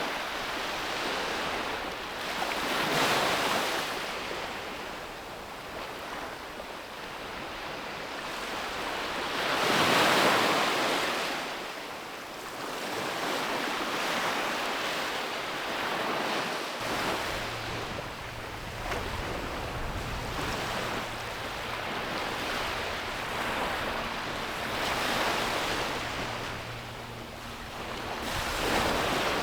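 Sea waves breaking and washing on a beach, swelling and fading in several surges, the largest about a third of the way through. A steady low hum comes in a little past halfway.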